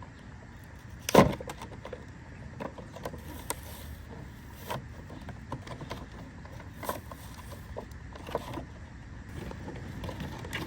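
A toy monster truck's packaging being handled and opened: irregular clicks, taps and knocks of plastic and cardboard, with one loud knock about a second in.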